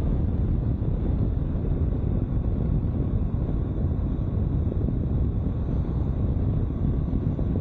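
Steady wind rush and buffeting on a helmet-mounted microphone while riding a 2022 Honda CB500X motorcycle at road speed, with the bike's running underneath.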